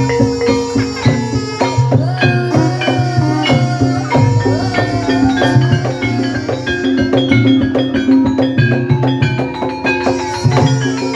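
Javanese gamelan music for an ebeg horse dance: metal keyed instruments struck in quick, steady strokes that ring on, over low sustained tones and drumming.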